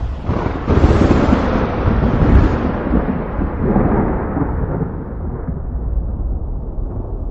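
Thunder: a sharp clap breaks about a second in, then rolls on in a long, uneven rumble that slowly fades and turns duller.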